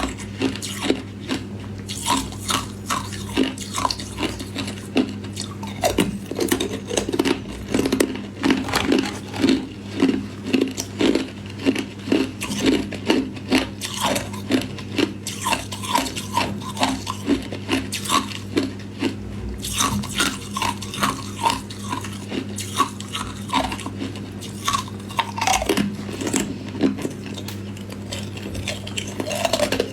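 Ice cubes being bitten and chewed close up: a long run of hard, sharp crunches, coming about two a second in stretches, over a steady low electrical hum.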